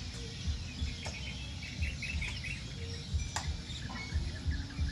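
Faint bird chirps, with a quick run of them about two seconds in, over a low irregular rumble and scattered clicks.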